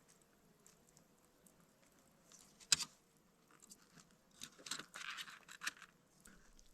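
Faint scraping and rustling of things being handled, with one sharp click almost three seconds in.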